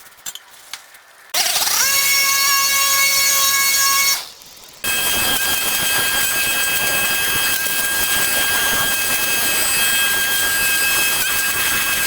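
A high-speed power tool motor spins up with a rising whine about a second in, runs steadily for about three seconds and stops, then starts again and runs for the rest of the time with a harsher, hissier sound over a steady high whine.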